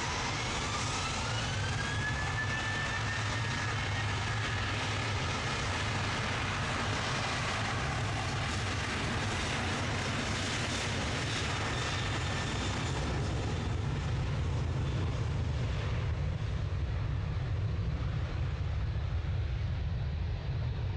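Jet airliner taking off: a whine rises over the first two seconds as the engines spool up to takeoff power, then holds over a steady low rumble. The sharper high end thins out over the second half as the aircraft moves away down the runway.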